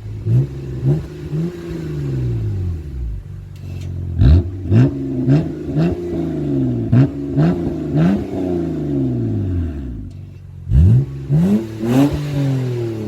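BMW 325i E90 inline-six with a valved exhaust being revved while stationary: a run of quick throttle blips, each rev rising sharply and falling back slowly, then a quieter idle-like lull before another series of blips near the end.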